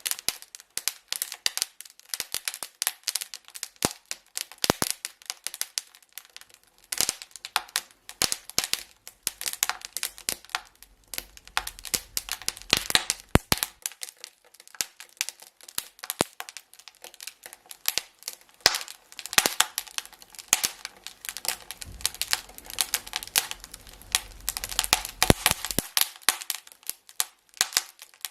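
Wood fire crackling, with irregular sharp pops and snaps in quick succession. A low rumble comes in twice under the crackle, in the middle and again near the end.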